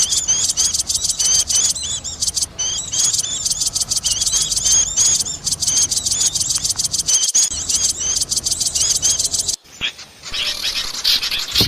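Small songbirds giving a rapid run of short, high chirps, a lure-call recording played to draw small birds in. The run breaks off briefly near the end and gives way to a denser, busier chattering.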